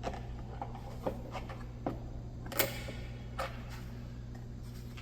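About five scattered clicks and knocks as plastic bumper trim pieces are handled and fitted, the loudest about halfway through, over a steady low hum.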